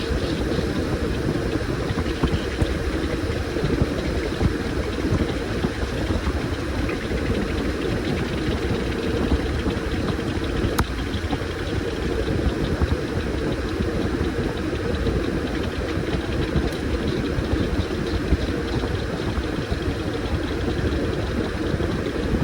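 Washing machine running with a load of towels, a steady machine sound with a low rumble.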